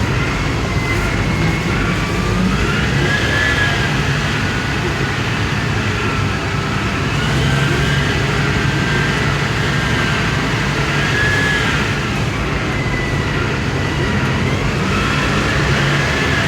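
Ottawa shunt truck's diesel engine running steadily, with a thin whine that wavers up and down in pitch over it every few seconds.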